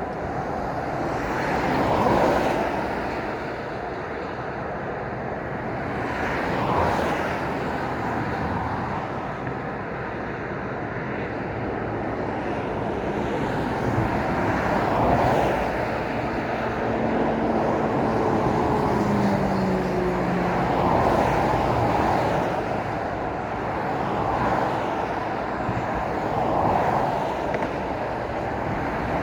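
Road traffic passing one vehicle after another, the tyre and engine noise swelling and fading with each pass, about six passes in all. In the middle one vehicle's engine tone falls in pitch as it goes by.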